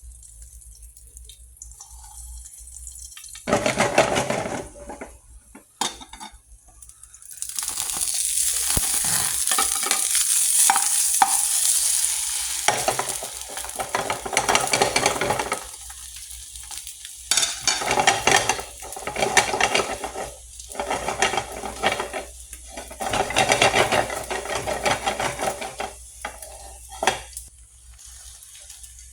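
Eggs frying in hot oil in a pan: a loud, steady sizzle for several seconds, then repeated bouts of a utensil stirring and scraping in the pan.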